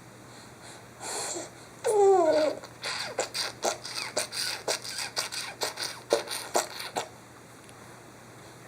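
A short falling squeal, then a quick run of short squeaking, oinking sounds for about four seconds: the happy noises Danielle makes when she's really happy.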